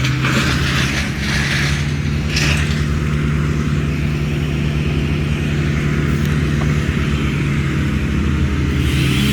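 An engine running steadily at an even speed, with a few brief rushing bursts in the first two seconds or so.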